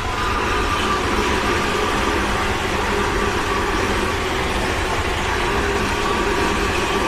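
Tobu Tojo Line electric commuter train passing, a steady loud rush of wheels and running gear on the rails with a faint whine.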